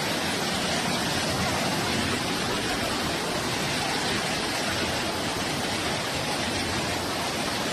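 Fast-flowing floodwater rushing steadily, an even wash of noise with no breaks.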